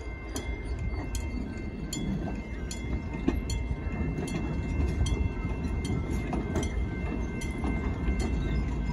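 California Western Railroad (Skunk Train) passenger coaches rolling slowly past with a steady low rumble of wheels on rail. A grade-crossing bell rings about twice a second over it.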